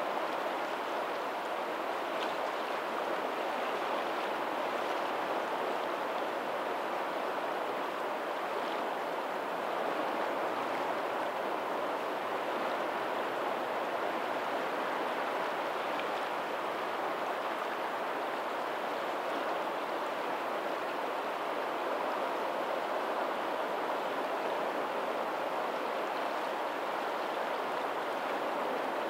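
Steady rush of water from a lagoon's tidal outflow running over a pebbly shore, with small trickling splashes now and then.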